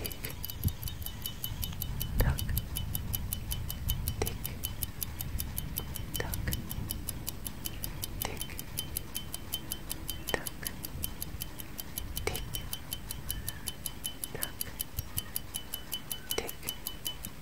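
Clock ticking sound effect: a fast, even run of light ticks, several a second, with a louder, fuller tick about every two seconds, over a faint low rumble.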